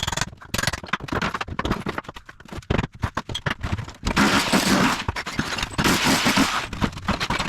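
Bosch Bulldog Max SDS-Plus rotary hammer driving a tile chisel, hammering rapidly in stop-start runs as it breaks up floor tile and cement board, with cracking and scraping of the broken tile. About four seconds in, the hammering becomes a longer, denser run.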